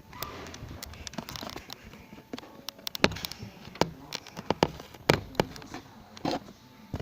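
Irregular sharp knocks and clicks, a dozen or more, some much louder than others.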